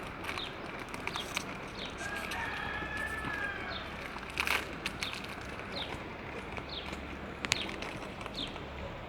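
Small birds chirping in short repeated calls, with a rooster crowing once about two seconds in, and a single sharp click late on.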